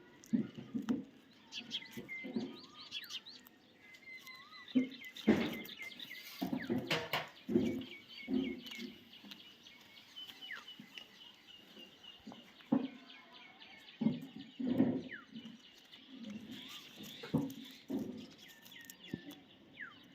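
Pet parrots chirping and calling in short high notes and quick runs of repeated notes, with several louder, lower-pitched bursts in between.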